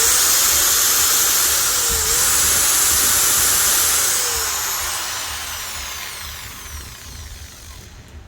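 Makita angle grinder switched on and running smoothly at full speed with a steady high whine and hiss for about four seconds, then switched off and spinning down, its pitch falling as it fades. The repaired motor runs without the internal popping and sparking it had.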